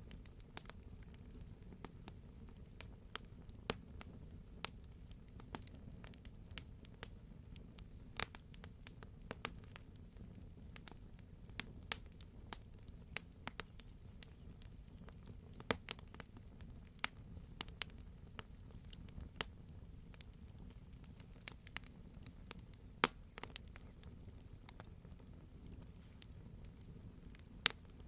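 Wood campfire crackling: irregular sharp pops and snaps from the burning logs, a few a second, over a steady low rumble of the flames.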